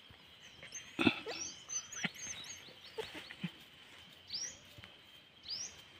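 Birds chirping in short high calls, over a faint steady high tone, with a few short sharp sounds, the loudest about a second in.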